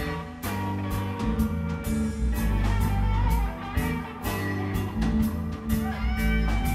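A live rock band playing an instrumental blues jam: an electric guitar lead over bass and drums.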